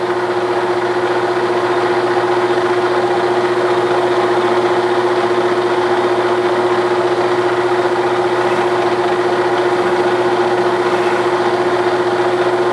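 A 1967/68 Clausing Colchester 1340 gear-head lathe running steadily, a loud even hum with one strong held tone, as the edge of the part is chamfered.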